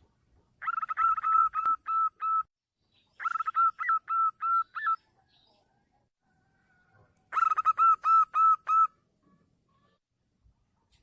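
Zebra dove (perkutut) singing: three cooing phrases, each a quick run of short notes that slows into a few longer, evenly spaced coos.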